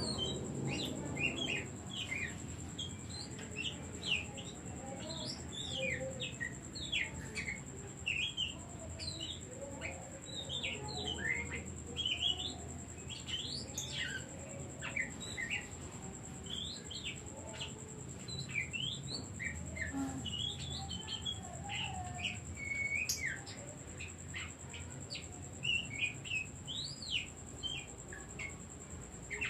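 Oriental magpie-robin (kacer) singing: a rapid, continuous run of short, varied whistled notes, many sweeping down in pitch.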